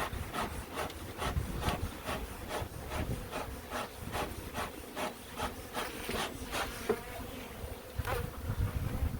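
Honeybees buzzing around an open hive, over a run of quick even scraping strokes, about two or three a second, that stop about seven seconds in.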